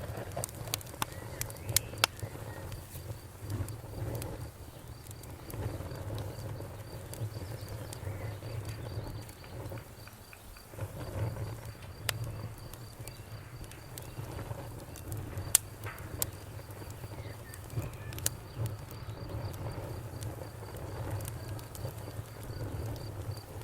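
Bonfire crackling, with sharp pops scattered irregularly over a low rumble of the burning wood, while crickets chirp steadily in a fast, even pulse behind it.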